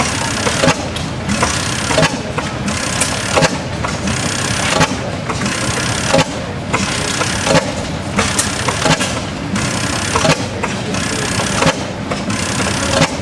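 1900 12 HP Reid oil-field engine running slowly, with a sharp beat roughly once a second over a steady mechanical clatter.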